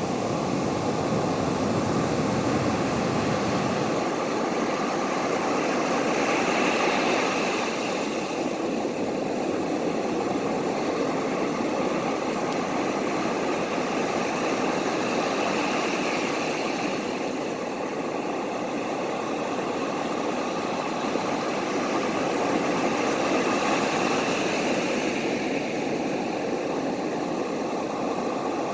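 Ocean surf: a steady rush of waves that swells and eases about every eight seconds.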